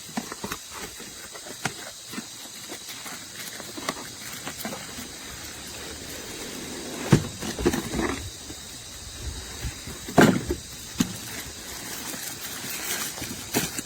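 A cardboard box being opened and the packaging handled: scattered rustles, taps and scrapes, with louder bumps about seven seconds in and again around ten seconds, over a steady hiss.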